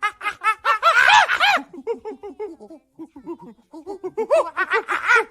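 Rapid giggling, a cartoon-style laugh of short high-pitched syllables several a second. It comes in a loud burst at the start and again near the end, with softer chatter between.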